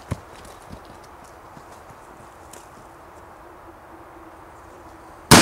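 Quiet woodland background with a few scattered knocks, then near the end a single loud explosive blast from a charge blowing apart a tree stump.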